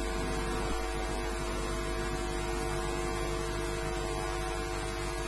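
Steady electrical mains hum with several constant tones under a layer of hiss, unchanging throughout.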